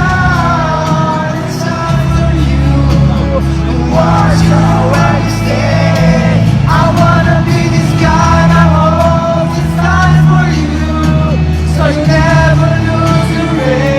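Live pop-rock band playing with a male lead singer, heard in a stadium.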